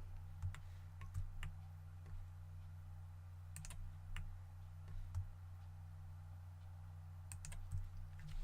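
Scattered clicks of a computer mouse and keyboard, a dozen or so at uneven intervals, over a steady low electrical hum.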